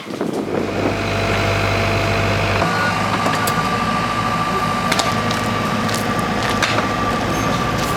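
An engine running steadily, its note shifting about two and a half seconds in, with a few sharp clicks over it.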